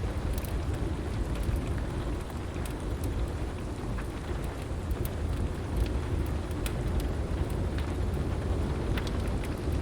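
Heavy rain falling steadily over a deep, continuous thunder rumble, with scattered sharp crackles and pops from a wood fire.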